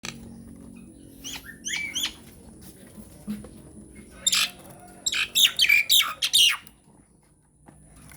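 Nias hill myna calling: a quick run of three whistled notes about a second in, then a series of loud, harsh squawks and shrieks from about four to six and a half seconds.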